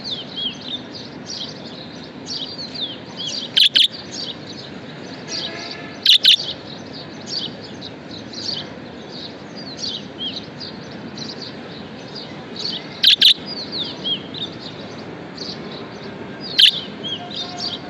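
Budgerigars chirping continuously in quick short notes. Four louder, sharper calls stand out, most of them in quick pairs.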